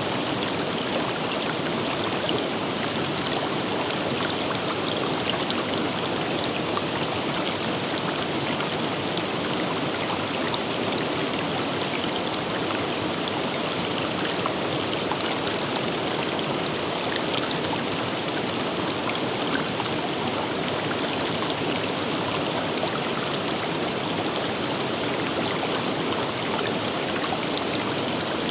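River water flowing over rocks with a steady rush, full of small splashes and trickles.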